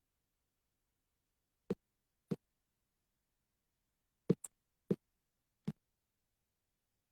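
Six short, dull knocks or taps at irregular intervals, with a small sharper click just after the fourth. Between them the audio is completely silent.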